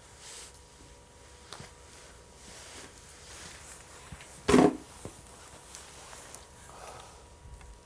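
Wood fire burning with a soft hiss and scattered small crackles, and one loud crack a little past halfway.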